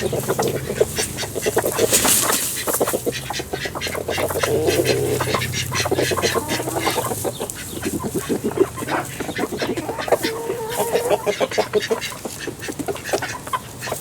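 Flock of chickens and ducks calling together, quacking and clucking in many short, busy notes.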